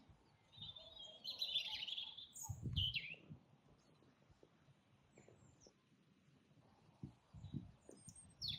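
Garden birdsong: a bird sings a warbling phrase about a second in, followed by a quick down-slurred note, with scattered short calls afterwards. A low thump comes at the same time as the down-slurred note, near the middle.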